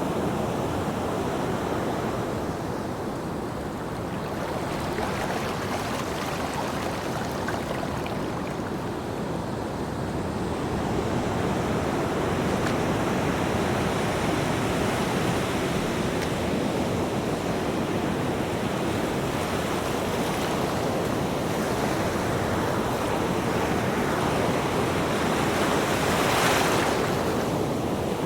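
Ocean surf washing in continuously, swelling and easing, with one louder, hissing breaking wave near the end.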